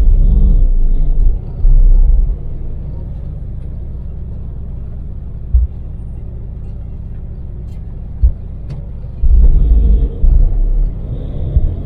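Cabin noise of a Daewoo Damas LPG microvan driving on an expressway: a steady engine and road rumble. Near the start and again near the end, much louder low rumble swells for a second or two.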